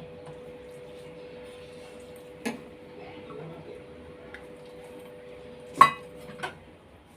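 Dishes clinking during a meal: three sharp knocks of tableware, the loudest about six seconds in with a brief metallic ring, over a steady low hum.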